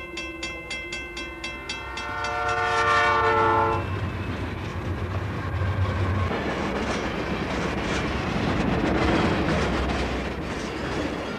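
Train horn sounding a loud chord of several notes, about two seconds long, as the train approaches. Then the train passes close by with a loud rushing noise and a low rumble.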